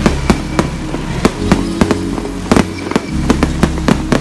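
Aerial fireworks going off: an irregular rapid run of sharp bangs and cracks, about three to four a second.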